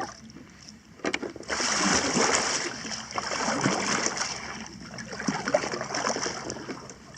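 Kayak paddle strokes splashing hard in fast, choppy river water, setting in about a second and a half in and swelling and falling with each stroke.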